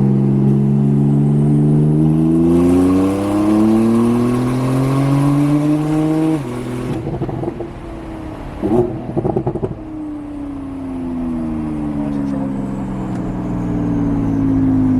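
Porsche 911 Turbo S twin-turbo flat-six with an aftermarket exhaust, pulling hard with its pitch climbing steadily for about six seconds. It then lets off, with a burst of crackles and pops from the exhaust. A slowly falling drone follows, growing louder near the end.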